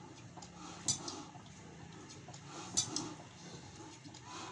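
Sharp metallic clinks, one about every two seconds, over a low steady hum.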